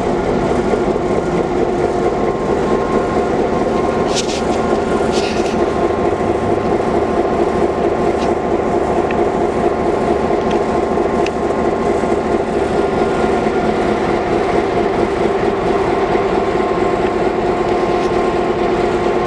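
Excursion train running: a loud, steady drone of several held tones over a low rumble. Two sharp clicks come about four and five seconds in.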